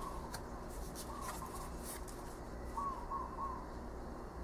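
A bird calling in short runs of soft, arched notes, twice, over a steady low hum.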